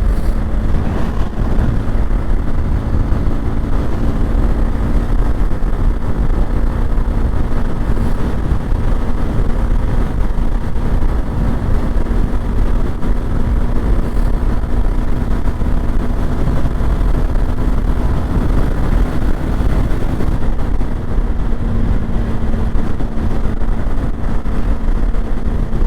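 Motorcycle engine running at a steady, even speed while riding, over a dense low rumble.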